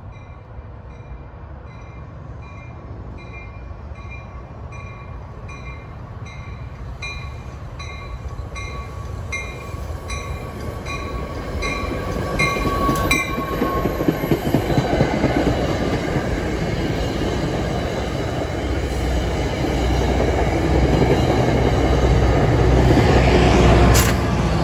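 Commuter train approaching and passing close by. A bell rings about once a second, growing louder, and stops about thirteen seconds in as the leading cab car passes. The rumble and clatter of the coaches on the rails then builds, loudest near the end as the diesel locomotive pushing at the rear goes by, and the sound cuts off suddenly.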